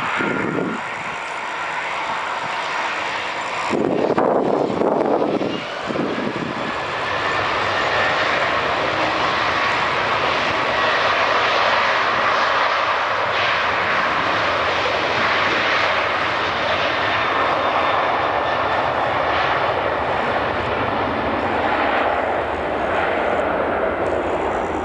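Jet airliner's engines spooling up, a whine rising in pitch over loud jet noise, then running steadily at high power.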